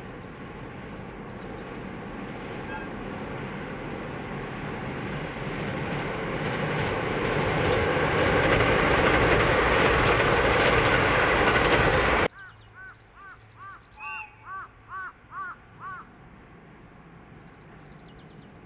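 Electric commuter train running over a steel girder railway bridge, its rumble growing steadily louder until it cuts off abruptly about twelve seconds in. Then a crow caws about eight times in quick succession.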